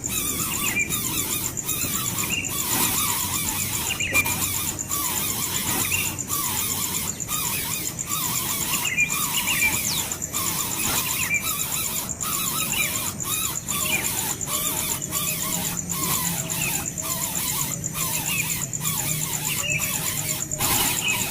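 Nestling birds giving rapid, squeaky begging chirps over and over, the calls of hungry chicks wanting food.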